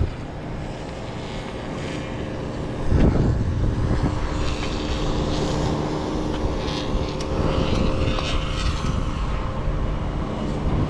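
Wind rumbling over the microphone while an e-bike is ridden, with a faint steady hum underneath; the rumble swells about three seconds in.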